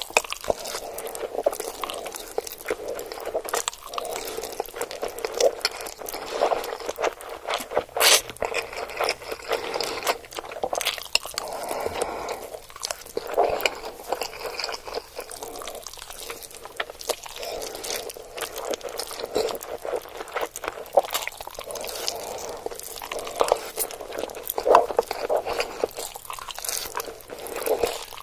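Mouth eating sounds: chewing and biting, with many quick, irregular crunches and crackles.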